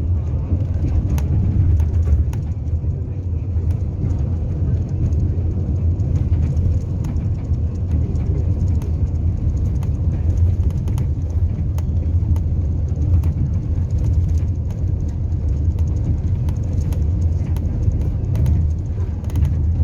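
Steady low rumble of a running vehicle engine, with faint scattered ticks and rattles.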